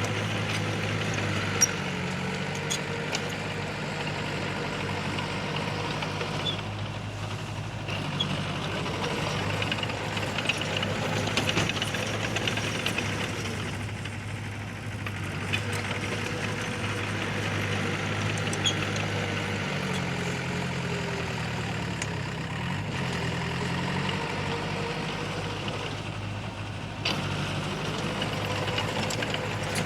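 Diesel engine of heavy earthmoving machinery running steadily, its pitch sagging and recovering about two-thirds of the way through as the load changes, with a few faint clanks.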